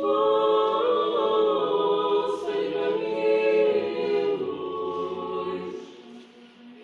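Several dogs howling together in a held chorus of overlapping pitches. The howling starts abruptly and dies away about six seconds in, leaving a fan running.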